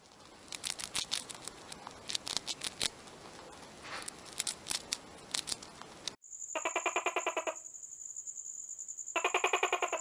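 A soft hiss with many quick clicks and ticks, then, from about six seconds in, a steady high-pitched insect whine with two bursts of rapid trilling calls, the second near the end.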